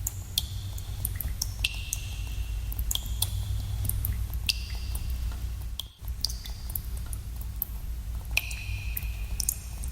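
Water drops falling in a cave, each a sharp plink with a short ringing tone that echoes, several a second at irregular intervals, over a steady low rumble. The sound drops out for a moment about six seconds in.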